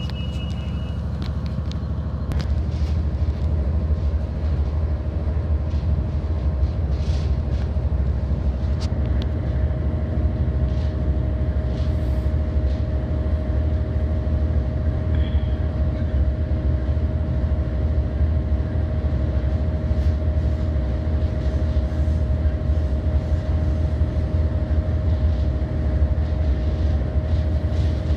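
Suburban commuter train running, heard from inside the carriage: a steady low rumble with a constant hum, getting louder about two seconds in, and occasional light clicks. A high steady tone stops about a second in.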